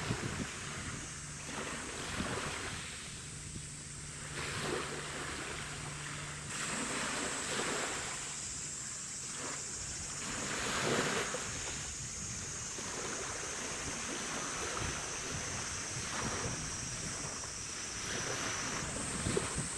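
Gusty wind buffeting the microphone over harbour water lapping, in repeated surges. A faint steady low hum is heard during the first few seconds.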